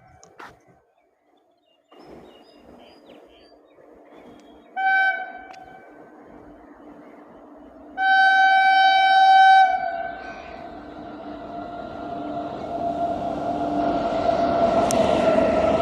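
Electric locomotive horn sounding a short blast and then a longer one of about a second and a half, followed by the growing rumble of a train approaching along the track.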